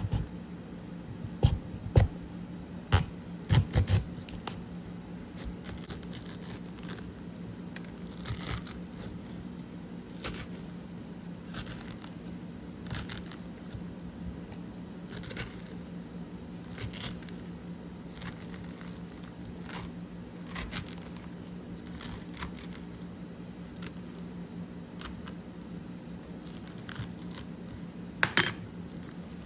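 Eating and food-handling sounds: scattered sharp clicks, knocks and scrapes, with a few loud knocks in the first seconds and again near the end, over a steady low hum.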